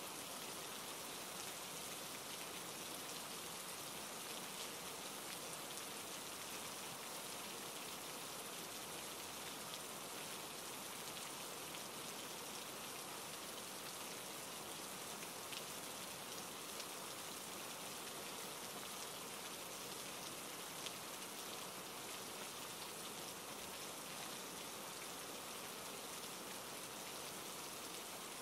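Steady rain falling, a dense even hiss with a few sharper drop ticks here and there.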